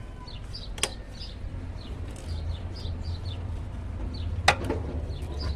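A small bird chirps over and over in quick short notes. Two sharp clicks cut in, one about a second in and a louder one past the middle, over a low steady rumble.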